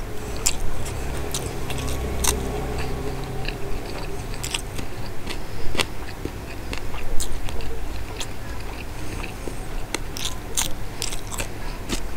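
Close-miked chewing of a soft mouthful of rice and Bombay duck mash, with irregular wet clicks and smacks of the mouth.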